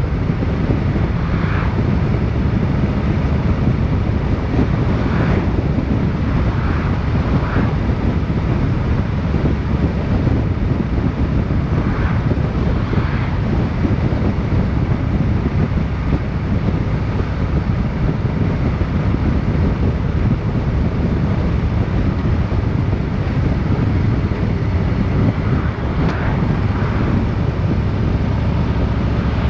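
Wind buffeting the microphone over the steady low rumble of a vehicle on the move, with a few brief, fainter higher sounds now and then.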